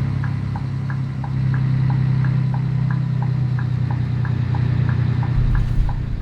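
Scania 113 truck's engine running steadily, heard from the cab, with an even ticking about three times a second, alternating between two pitches, typical of the turn-signal flasher clicking on and off. A low rumble swells briefly near the end.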